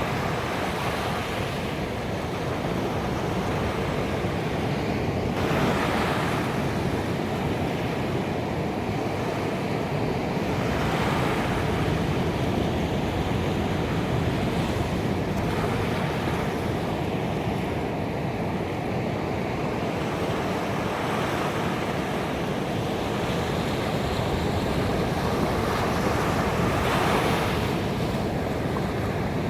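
Ocean surf washing onto a beach as a continuous rush. Waves swell and break every few seconds, with a louder break near the end.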